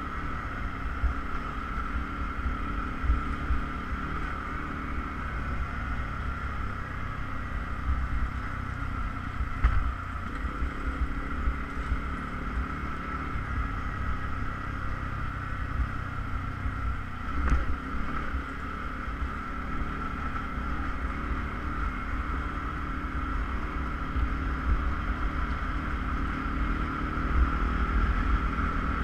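Off-road vehicle engine running steadily while driving, with a low rumble from the ride and a single knock partway through.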